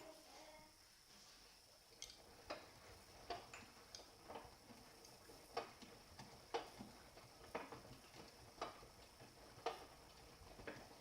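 Hotpoint washing machine on a quick wash, its drum tumbling the load with faint clicks and knocks, uneven at first and then about once a second.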